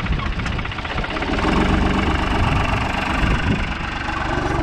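A heavy vehicle engine running steadily, growing a little louder about a second in.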